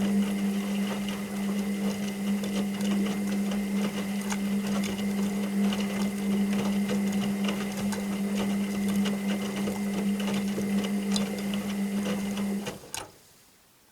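Washing machine running through one turn of its cycle: a steady motor hum with many small clicks and rattles over it. It cuts off near the end with a last click.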